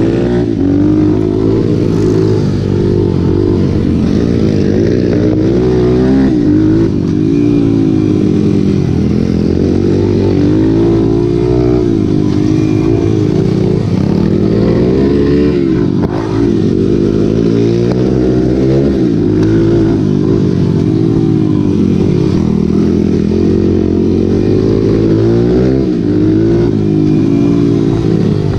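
Several racing motorcycle engines revving, their pitch repeatedly climbing and dropping through gear changes as the bikes go round the track.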